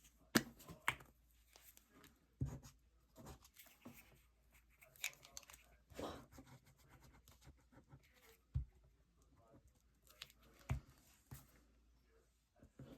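Paper and craft materials being handled on a work table: irregular rustling and crinkling with a few sharp taps and knocks scattered through.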